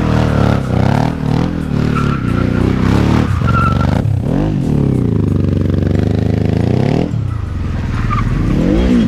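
Quad's motorcycle engine revving under load, its note climbing and falling repeatedly with the throttle, with a deep dip and rise in the middle and a sudden drop about seven seconds in before it climbs again.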